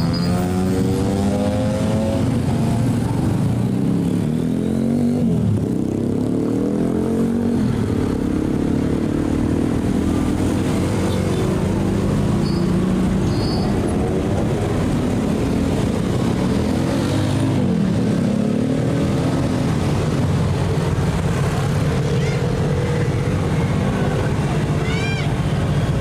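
Heavy diesel truck engines running in slow passing traffic, their pitch rising and falling as the vehicles pull through. A few short high squeaks are heard near the middle and near the end.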